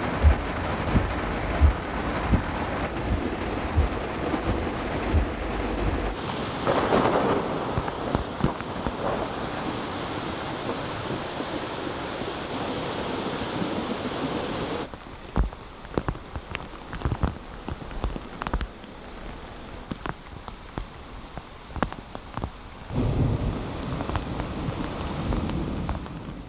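Torrential thunderstorm rain pouring down, a steady rushing noise that changes abruptly about 6, 15 and 23 seconds in. From about 15 seconds on, separate sharp drop impacts stand out over the rain.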